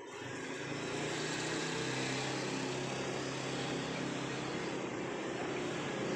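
An engine running steadily, a low hum under a broad hiss, coming in suddenly at the start.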